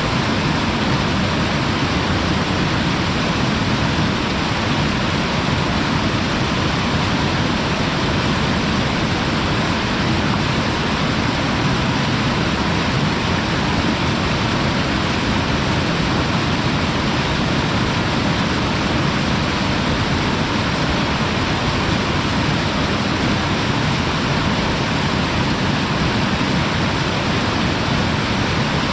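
Waterfall, heard close up at its lip: a loud, steady rush of falling water.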